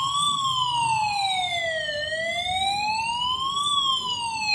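Wailing siren, its pitch sweeping slowly up and down, about one full rise and fall every three and a half seconds.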